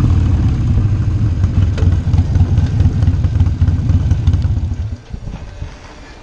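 Motorcycle engine running at low revs with a pulsing rumble, which stops about five seconds in.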